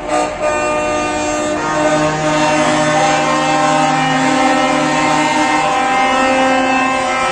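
Truck air horns blaring, several held at once in overlapping steady tones. They start suddenly, another horn joins about two seconds in, and they sound for the whole stretch.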